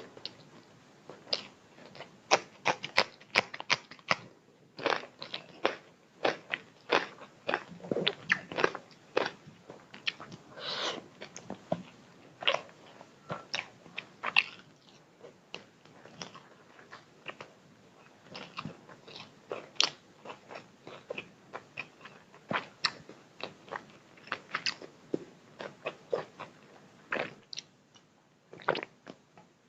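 Close-up eating sounds: a person biting and chewing, with sharp irregular crunches and wet mouth clicks, from a meal of chicken biryani, chilli chicken, raw onion and green chilli.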